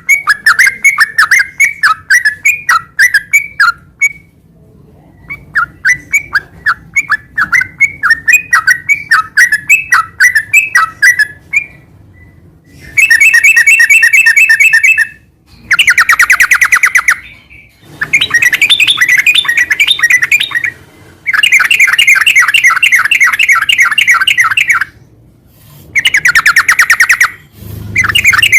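Sooty-headed bulbul singing. First comes a long run of quick falling chirps, broken by a pause of about a second. About halfway through it switches to a series of rapid, buzzy trills, each two to four seconds long with short pauses between them.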